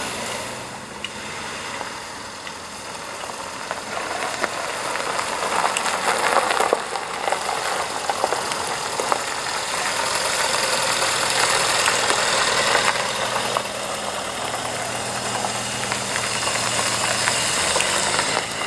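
A car engine idling close by.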